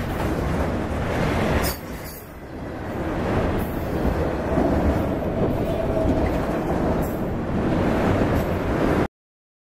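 Freight train of autorack cars rolling past: steady rumble and clatter of steel wheels on rail. It dips briefly about two seconds in and cuts off suddenly near the end.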